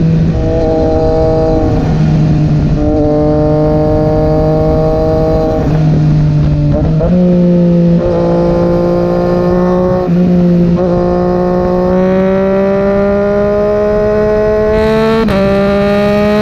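Triumph Street Triple 675's inline three-cylinder engine running at fairly steady, high revs through a Racefit titanium exhaust. The pitch jumps slightly up or down every second or two and climbs slowly near the end.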